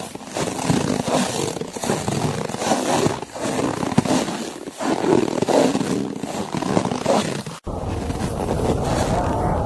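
Footsteps crunching through snow, a run of uneven scrunching crunches. About three-quarters of the way in the sound cuts out for an instant, and a low wind rumble joins it afterwards.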